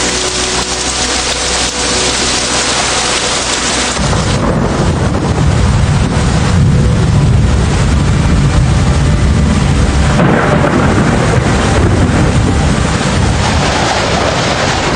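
Heavy storm downpour beating on surfaces, a loud steady hiss; about four seconds in a deep rumble joins it and stays.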